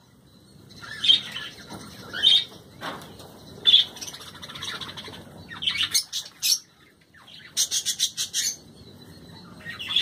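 Caged aviary birds calling: a few loud single calls about a second apart, then fast runs of short, high chirps past the middle.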